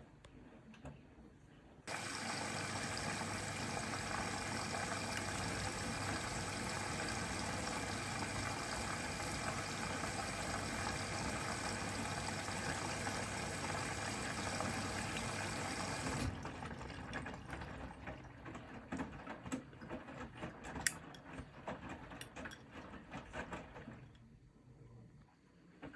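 Bosch Serie 4 washing machine taking in water for the prewash. About two seconds in, the inlet valve opens and water rushes in with a steady hiss. The rush cuts off suddenly some fourteen seconds later, and water then trickles and gurgles with light clicks for several seconds.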